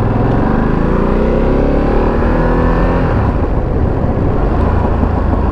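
Motorcycle engine accelerating under the rider, its pitch rising steadily for about three seconds, then dropping away as the throttle changes, with wind and road noise.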